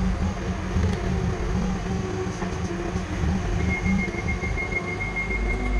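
Steady low rumble of a running vehicle, with a rapid series of high-pitched beeps starting a little past halfway.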